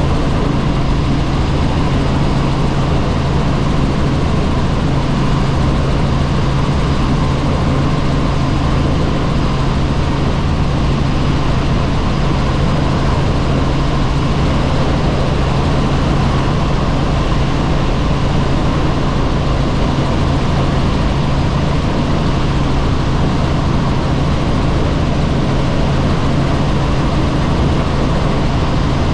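Helicopter's engine and rotor running steadily: a constant loud drone with a strong low hum.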